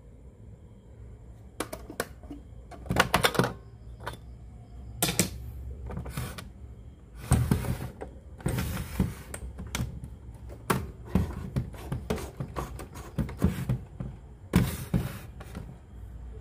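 Irregular clicks, knocks and short scrapes of hands handling a cassette radio, over a low steady hum.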